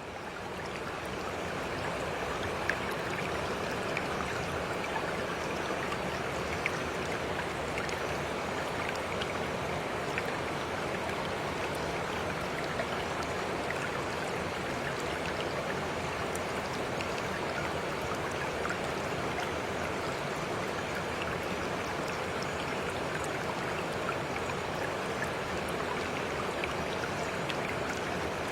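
Stream water flowing: a steady babbling rush with scattered small splashes, fading in over the first couple of seconds.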